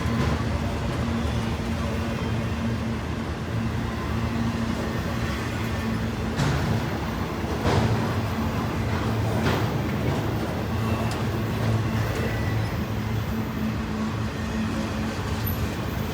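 Freight train rolling past: a steady rumble of wheels on rail with a low hum, and a few sharp clanks between about six and ten seconds in.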